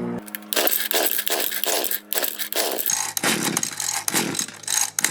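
Mantis mini tiller's small two-stroke engine running rough: it sputters in loud, uneven pulses about three times a second over a faint steady hum. The hum drops in pitch about three seconds in.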